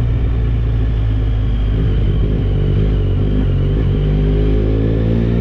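Yamaha Tracer 9 GT's 890 cc inline-three engine running through an aftermarket Dominator exhaust. It holds a steady pitch at first, then rises as the bike accelerates, starting about three and a half seconds in.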